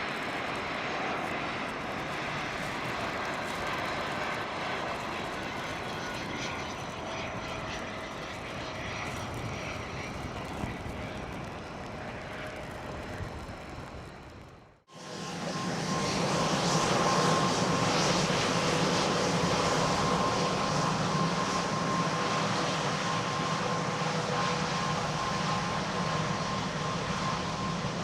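Business jets on a wet runway. First a Cessna Citation Mustang's twin turbofans, a steady rush with faint slowly falling tones. After a sudden break about halfway, a Bombardier Global 6500's turbofans, louder, with a steady high whine over a low hum.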